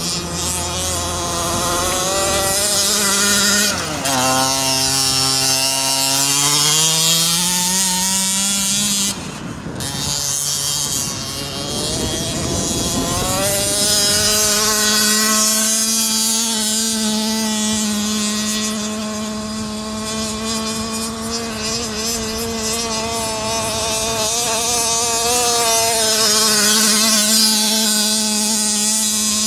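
The 28cc two-stroke engine of a Himoto 1/5 scale RC monster truck running at high revs. Its note drops about four seconds in and climbs back over the next few seconds, dips again near ten seconds, then holds a steady high pitch.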